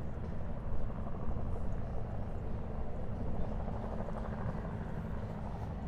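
Helicopter flying, a steady low drone that grows slightly louder around the middle.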